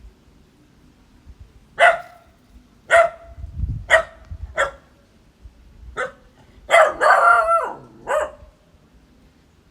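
Dog barking: five short single barks about a second apart, then a longer drawn-out bark and one more short one near the end.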